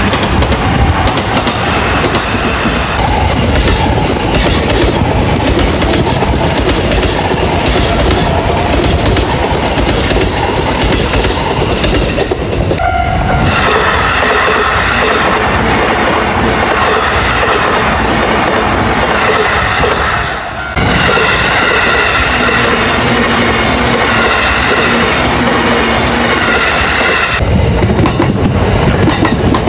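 Electric trains passing close by, their wheels clattering over rail joints, in several successive passes with abrupt cuts between them. In the middle passes a steady high tone sounds over the clatter.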